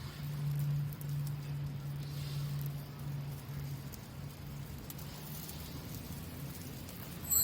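Small wood fire crackling with scattered faint pops and snaps, with a low hum fading out over the first few seconds.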